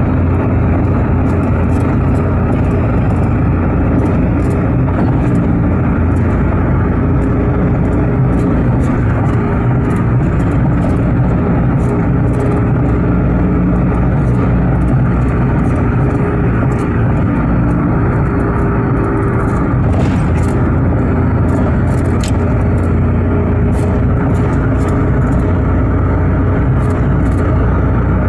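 A car driving: steady engine and road noise, continuous and without change.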